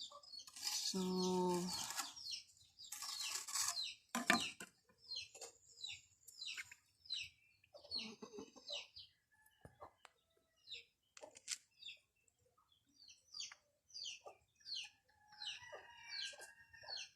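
Birds calling in the background: many short, high chirping calls in quick succession, with a sharp knock about four seconds in and a few fainter clicks.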